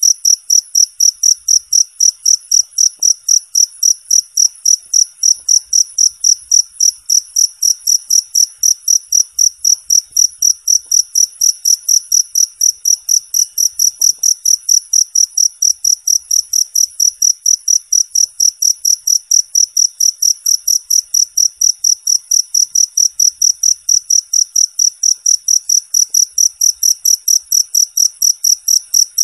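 A cricket chirping steadily, high-pitched and clear, at about four evenly spaced chirps a second.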